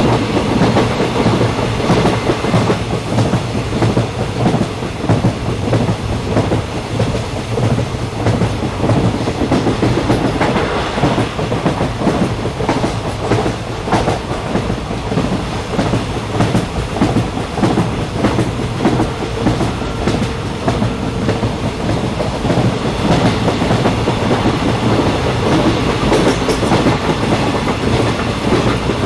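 Moving train heard from inside a carriage: a steady rumble of the wheels on the track, with a constant low hum and a quick, irregular clicking of the wheels over the rail joints.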